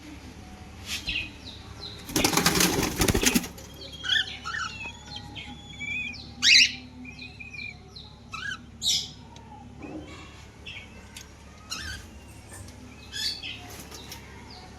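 Small pet parrots in an aviary: a flurry of wing flapping lasting about a second, about two seconds in, followed by scattered short high chirps and calls.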